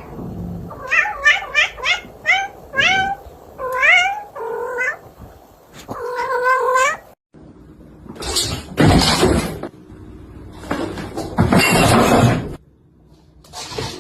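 A cat meowing over and over, a fast run of short calls that each rise in pitch, then one longer call. After a cut come two loud, noisy bursts of a second or so each, of unclear source.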